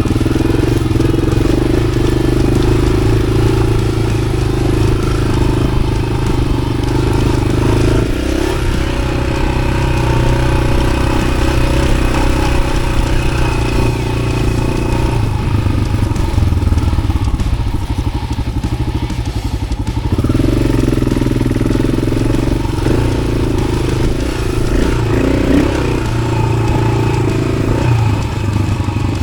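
A 1993 Yamaha XT600 single-cylinder four-stroke engine with an aftermarket Arrow exhaust running under way off-road. The engine note rises and falls with the throttle, dropping to a slower, pulsing beat for a few seconds around the middle.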